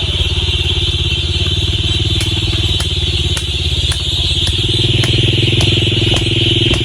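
A small engine running steadily, its note stepping up slightly about two-thirds of the way through, with a light regular ticking about twice a second over it.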